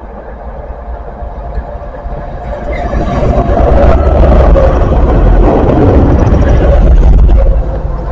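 Diesel locomotive hauling a train of tank wagons as it passes close by. The rumble of engine and wheels swells about three seconds in, stays loud for a few seconds, then drops away sharply near the end as the train clears.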